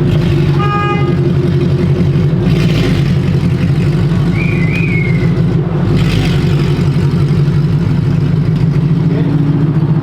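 2013 Mustang GT's 5.0 Coyote V8 running steadily through a dumped exhaust, open right after the X-pipe with no mufflers, giving a loud, deep drone.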